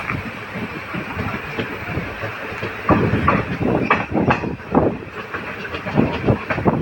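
Moving passenger train: steady wheel-and-carriage rumble with irregular clacks and knocks of the wheels over the rail joints, busier from about three seconds in.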